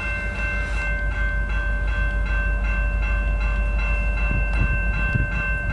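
CN freight train with two diesel locomotives passing at close range: a steady low rumble, with several continuous high-pitched tones ringing over it the whole time.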